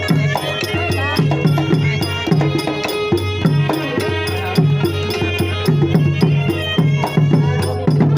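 Southern Thai Nora ensemble music: drums in a steady, quick rhythm with rattling percussion over sustained pitched tones.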